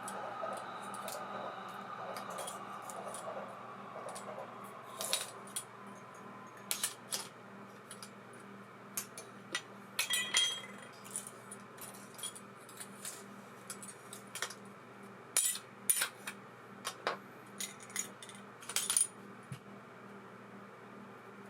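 ABU Ambassadeur 2500C De Luxe baitcasting reel spinning freely, a steady whir that slowly falls in pitch and fades over the first few seconds as it spins down. This is followed by scattered small metallic clicks and clinks of the reel's metal parts being handled.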